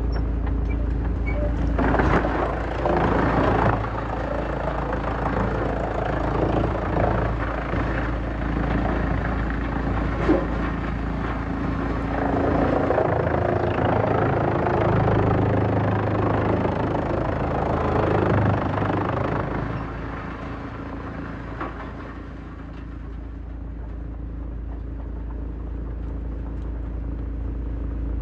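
Heavy-duty wood shredder running steadily, with irregular loud grinding as wood is chewed through from about two seconds in until near the two-thirds mark, then settling to a quieter steady running.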